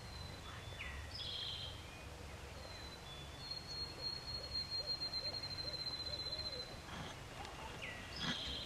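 Wild birds calling: a few short high whistled notes, then a long high trilled note lasting a few seconds. Faint low hoots, typical of an owl, repeat under it, over a steady low rumble of background noise.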